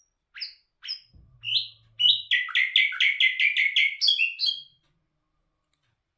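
Nightingale (bulbul hazar dastan) singing: a few separate short whistled notes, then a fast run of about nine repeated notes that stops just before the middle.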